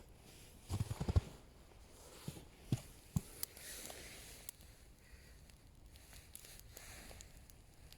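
Crunching and rustling of twigs and snow being handled, with a quick cluster of sharp snaps about a second in and a few single clicks after.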